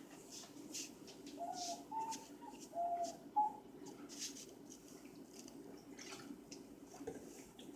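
Drawing strokes scratching on paper, a short stroke about every half second. Between about one and a half and three and a half seconds in, a few short, steady-pitched notes sound, the loudest of them near three and a half seconds.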